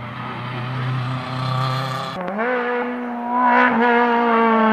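Rally car engine heard from the roadside as the car approaches. It runs at steady revs at first, then the revs climb sharply about two seconds in and stay high while it grows louder as it nears.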